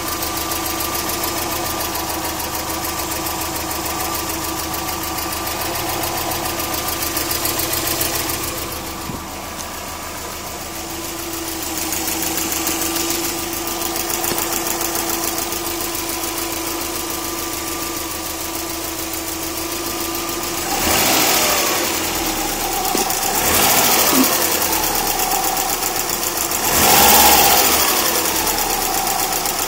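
Subaru EJ20K turbocharged flat-four engine idling with a rapid ticking, then revved briefly three times in the last third. The owner cannot place the tick and suspects piston slap, a bad timing belt tensioner, the AC or the lifters.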